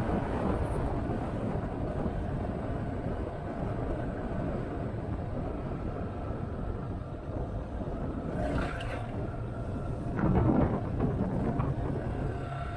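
Wind rumbling on the microphone over a motorcycle engine running at road speed, with a louder swell about ten seconds in.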